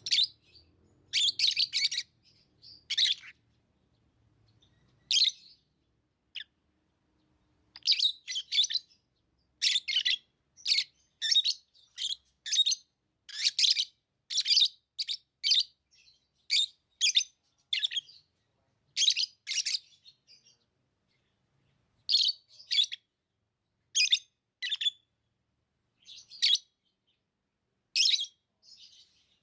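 Pet lovebirds chirping: short, shrill calls in quick clusters with brief pauses between, sparse at first and coming more often from about eight seconds in.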